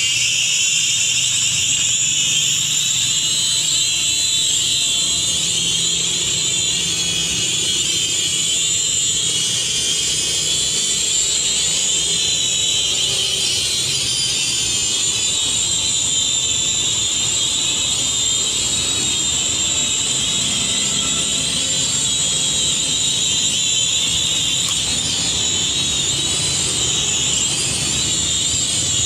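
Toy camera quadcopter's small motors and propellers running with a steady, high-pitched whine, the pitch wavering slightly now and then as it flies.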